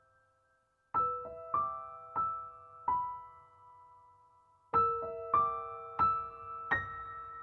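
Slow background piano music: a brief silence, then a short run of single struck notes, a pause, and fuller chords near the end.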